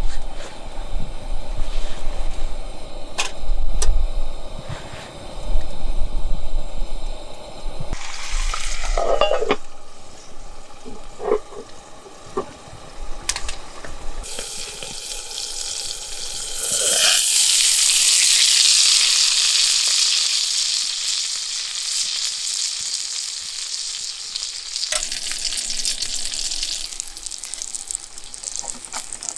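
Food frying over a campfire: a loud sizzle breaks out about halfway through, as food meets the hot metal, then slowly dies down. Before it come low rumbling and a few sharp clicks and knocks of handling.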